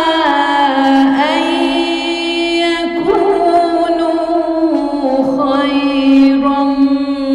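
A woman reciting the Quran in melodic tajweed style, holding long drawn-out notes with ornamented pitch turns, in several long phrases.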